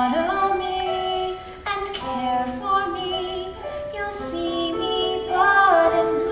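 A female voice singing long held notes over instrumental accompaniment.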